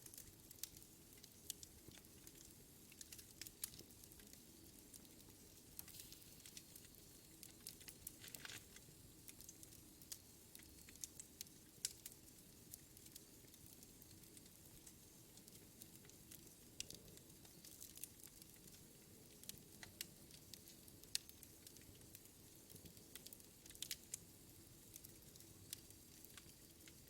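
Wood fire in a fireplace burning quietly, with frequent small irregular crackles and pops of the burning logs.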